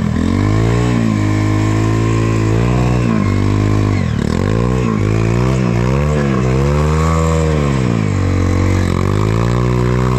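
Off-road motorcycle engine revving hard on a muddy trail climb, its pitch rising and falling repeatedly as the throttle is worked, with a sharp dip and recovery about four seconds in.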